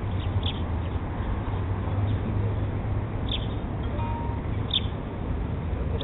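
Small birds chirping: a few short, high chirps spaced out over a steady low rumble.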